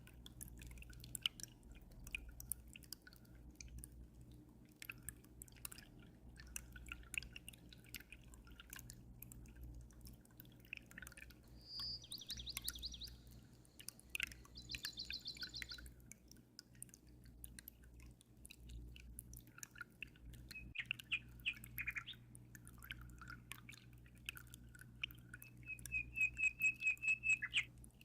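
Aquarium water trickling and dripping in many small ticks over a steady low hum, with birds chirping in short rapid trills several times; the last trill, near the end, is the loudest.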